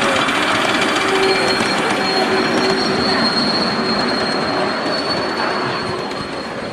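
Miniature railway train running along its track, with a steady high-pitched squeal of wheels on rail coming in about a second in.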